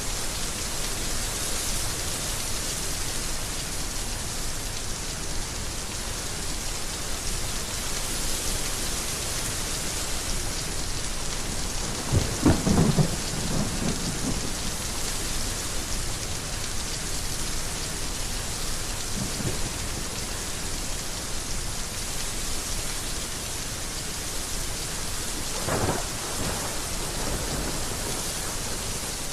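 Steady heavy rain, with rolls of thunder: a loud low rumble about twelve seconds in, a faint one a little later and another near the end.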